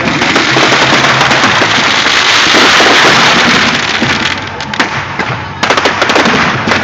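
Fireworks going off: a dense crackling for about four seconds, then a rapid run of sharp bangs near the end.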